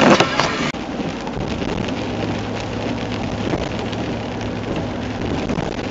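Rain on an RV's windshield and roof heard from inside the cab while driving on a wet highway: a steady hiss of rain and road spray over a low engine hum. A brief clatter of sharp knocks at the very start cuts off abruptly under a second in.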